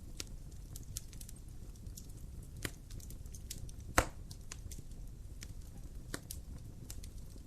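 Fireplace fire crackling: scattered sharp pops and ticks over a low steady rumble, with one loud pop about four seconds in.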